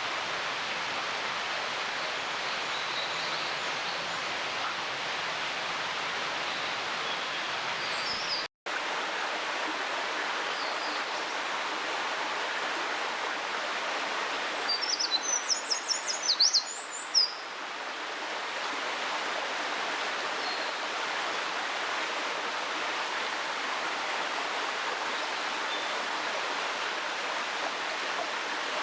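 Eurasian wren singing a short burst of rapid, high trilling notes about halfway through, over the steady rush of a stream.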